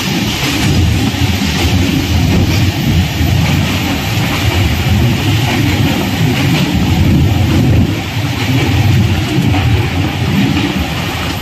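Passenger train running on the track: a loud, steady rumble of the moving coach.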